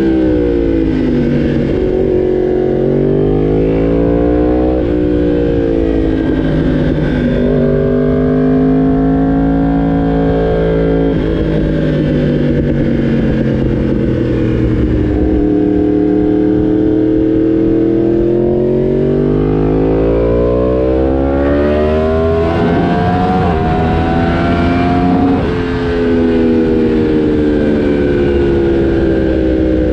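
Yamaha R1 sportbike's inline-four engine running hard, its pitch climbing and falling again and again as the rider accelerates, shifts and eases off, with several sudden drops in pitch.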